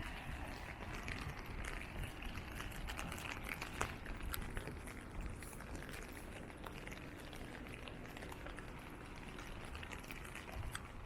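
Rain falling: a steady hiss with many small scattered ticks of drops.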